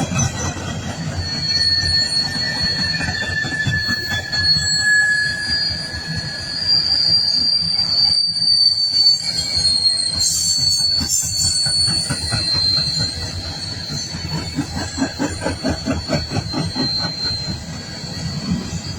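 Long coal train rounding a curve, its wheels squealing in steady high tones against the rails over the low rumble of the rolling cars.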